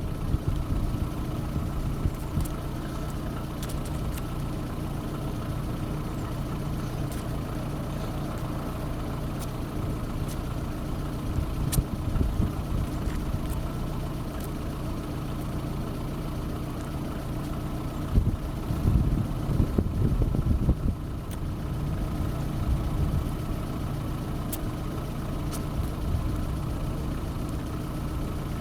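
Engine idling steadily, with an uneven, louder low rumble for a few seconds about two-thirds of the way in.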